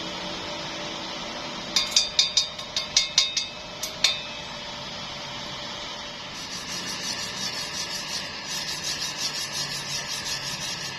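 Metalworking sounds: a steady hiss with a quick run of about ten sharp metal taps between two and four seconds in, then a faster, softer series of rhythmic strokes.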